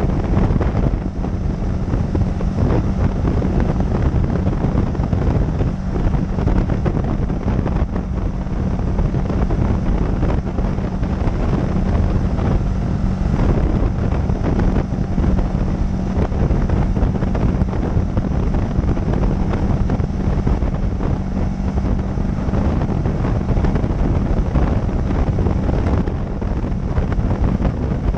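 Motorcycle riding at a steady speed: wind rushing over the microphone on top of a steady engine drone.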